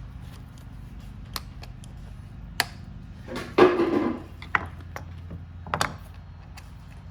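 Scattered clicks and knocks of small hard parts and tools being handled, with one louder scraping rustle about three and a half seconds in, over a steady low hum.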